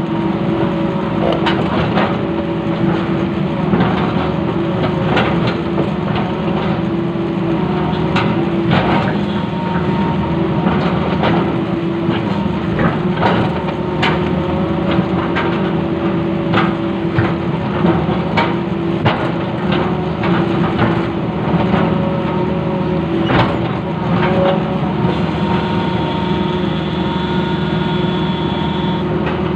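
Long-reach excavator's diesel engine running steadily under work, with frequent sharp cracks and knocks throughout, like wood or debris being crushed.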